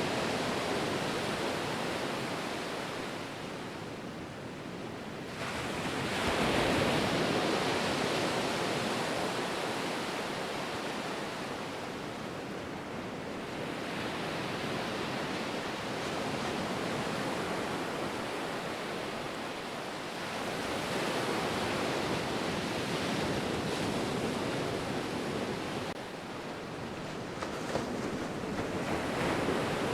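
Ocean waves breaking and washing on a shore, a continuous surf rush that swells and ebbs every several seconds, with one larger wave about six seconds in.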